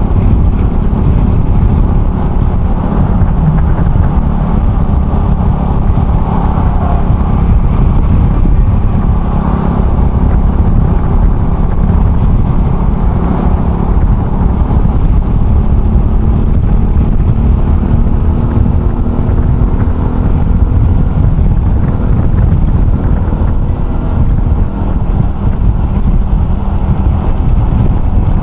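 Honda Cross Cub 110's single-cylinder engine running steadily through an RPM Raptor aftermarket muffler while the bike is ridden along, with heavy wind and road noise on the microphone.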